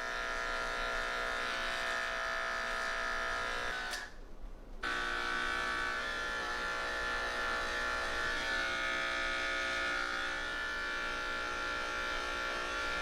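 Electric pet grooming clippers running with a steady buzz while shaving a longhaired cat's matted coat. They stop briefly about four seconds in, then start again.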